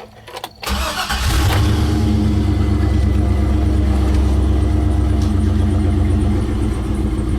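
A GM 5.3-litre V8 cranks briefly, catches a little over a second in, and settles into a steady idle.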